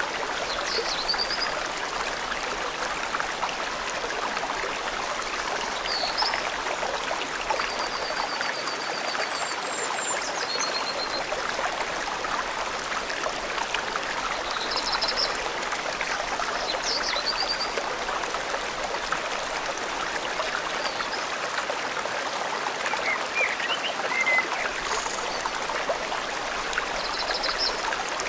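Forest river water flowing steadily, with small birds giving short high chirps and trills now and then.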